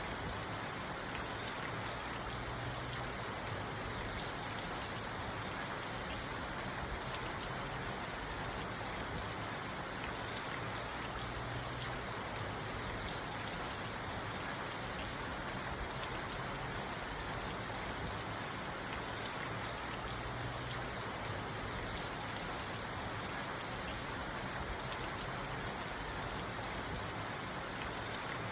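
Steady rain falling on a parked car, heard from inside the car: an even hiss of dense patter that holds level throughout.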